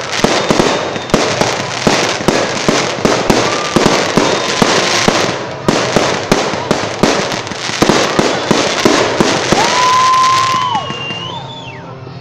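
A fireworks salute: a rapid, dense volley of bangs and crackling shells, with a few whistling tones over it. The bangs thin out near the end.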